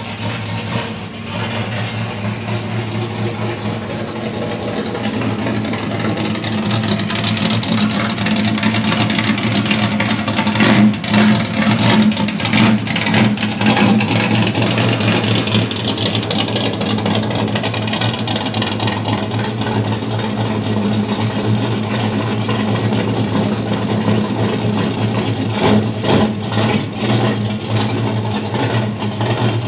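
Pontiac Firebird's engine running under way: a steady engine drone with road and wind noise, swelling louder for a stretch from about six seconds in before settling back.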